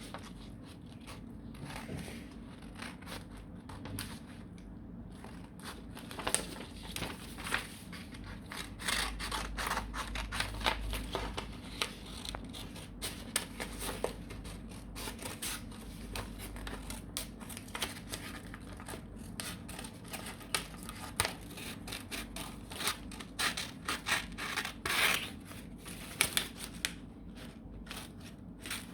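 Scissors cutting paper: a run of short, crisp snips, irregular and close together, more frequent and louder after about six seconds, with the rustle of the paper being turned. Cutting out a drawn design on plain paper.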